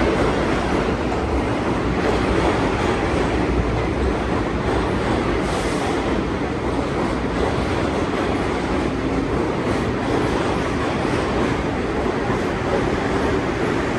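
R62 New York City subway train departing a station: a steady, even running noise of wheels on rail and motors.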